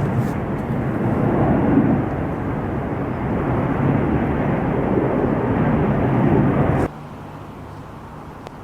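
Jet airliner noise, a loud steady rush, that cuts off abruptly about seven seconds in, leaving a quieter steady low hum.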